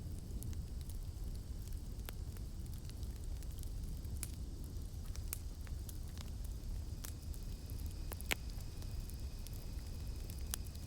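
Campfire crackling: scattered sharp pops and snaps over a steady low rumble of the flames, with one louder pop about eight seconds in. A faint steady high drone of cicadas runs behind it.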